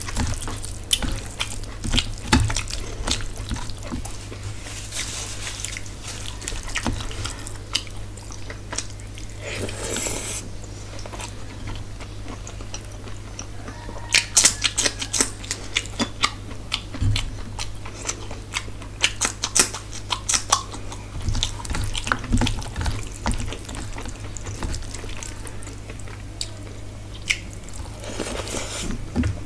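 Close-up eating sounds: wet chewing and mouth clicks as rice and curry are eaten by hand, with a cluster of crunchy bites into a raw green chilli about halfway through. A steady low hum runs underneath.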